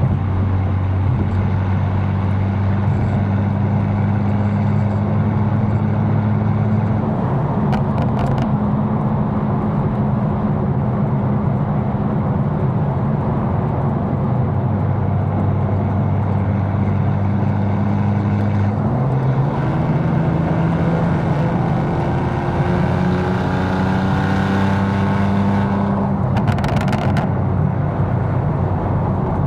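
Tuned BMW M4's twin-turbo straight-six driving at a steady cruise over road noise. The engine note shifts a little past halfway, then rises for a few seconds under light acceleration before dropping back near the end.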